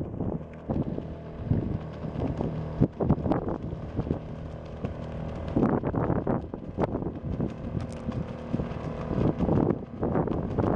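Coleman 2.6 hp outboard motor running steadily, with repeated gusts of wind buffeting the microphone.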